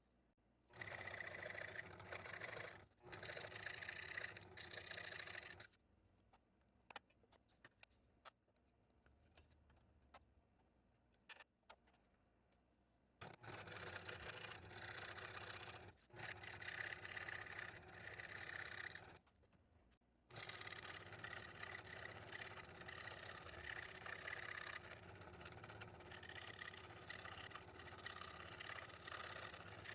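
Scroll saw running and cutting 1/8-inch Baltic birch plywood with a fine number 1 blade. It stops and restarts several times, with a long pause about six seconds in, then runs steadily from about twenty seconds in.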